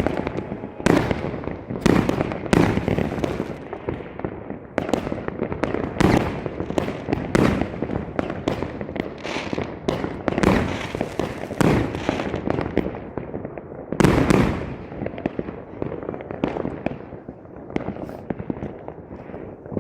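Fireworks bursting in quick succession, sharp bangs overlapping with their echoes. A loud cluster of bursts comes about two-thirds of the way through, and the bangs thin out and grow quieter near the end.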